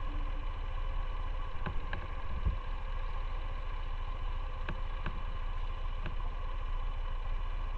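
Motorcycle engine idling steadily, with a few short light clicks and one low thump.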